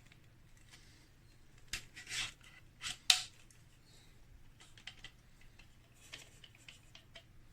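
Handling noises: a few short rustles and sharp clicks, the loudest click a little after three seconds in, then scattered light ticks. No motor is running.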